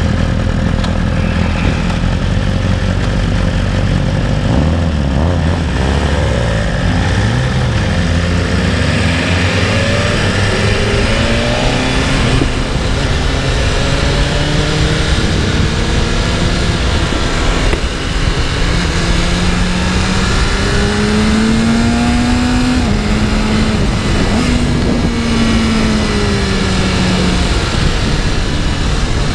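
BMW S1000RR's inline-four engine running low for the first few seconds, then pulling away and accelerating hard through the gears. Its pitch climbs and drops back at each upshift, under a loud rush of wind noise.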